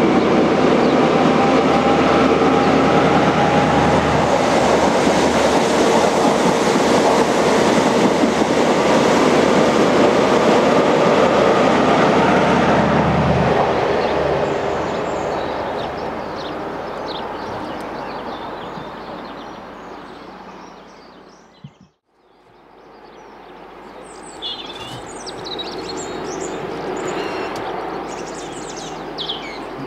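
Network Rail's New Measurement Train, a yellow HST, passing at speed: the rear Class 43 power car's diesel engine running, with the rumble of the wheels on the rails. The noise stays loud for about the first 13 seconds, then fades away as the train recedes. Birds chirp near the end.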